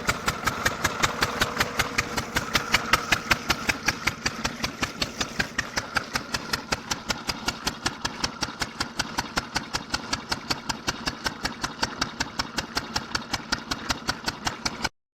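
Stationary diesel oil engine running steadily at a slow idle-like speed, driving an air compressor for a borewell, with even firing beats about six times a second. The sound cuts off suddenly near the end.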